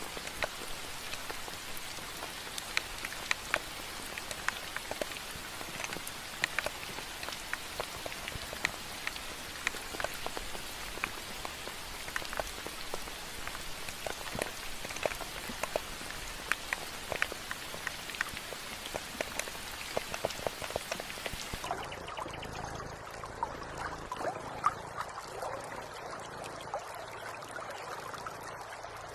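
Steady rain falling on a surface, with many individual drops ticking sharply through it. About three-quarters of the way through it cuts over abruptly to a softer trickling water sound.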